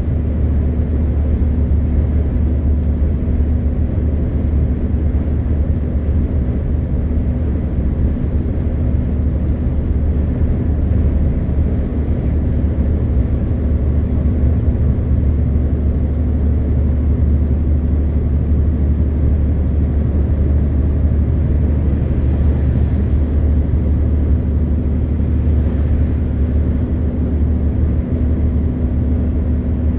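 MAN TGX 520 truck's inline-six diesel engine running steadily under way: a constant low drone with road noise, no gear changes or revving. A faint thin high whine rises slightly about halfway through.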